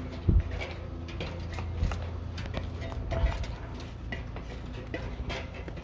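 Irregular knocks and clanks of someone climbing a ladder, hands and feet on the rungs, with a loud thump just after the start.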